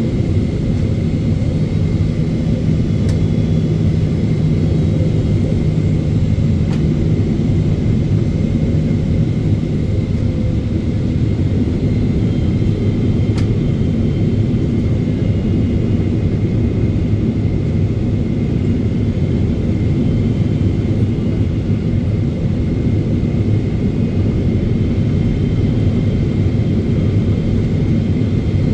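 Steady in-flight cabin noise of a Boeing 777-300ER: a dense, even rumble of airflow and engines, with a faint steady high tone over it.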